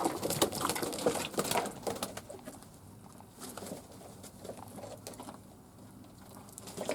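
Fantail doves cooing in a small room, with many short taps and rustles, busiest in the first two seconds and quieter after.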